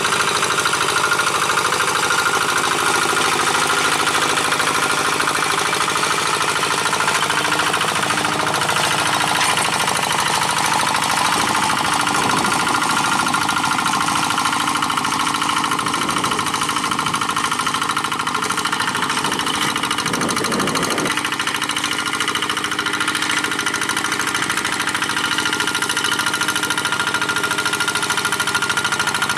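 Single-cylinder diesel engine of a two-wheel hand tractor running steadily under load while it pulls a moldboard plough through dry paddy soil. Its note wavers for several seconds around the middle.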